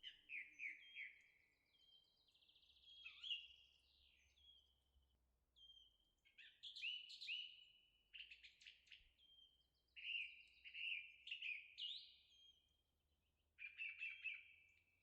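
A songbird singing faintly in short, quick chirping phrases, repeated every second or two with brief pauses between.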